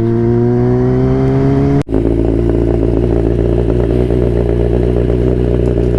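Kawasaki ZX-10R's inline-four engine running, its pitch creeping up slightly. About two seconds in the sound breaks off abruptly for an instant, then the engine runs on steadily at a different note.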